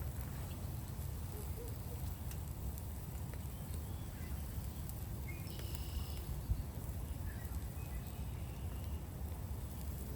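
Outdoor background: a steady low rumble with a few faint bird chirps around the middle and scattered small ticks.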